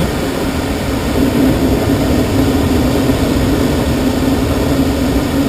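Steady rushing airflow around a glider's cockpit canopy in gliding flight, with a constant low hum underneath.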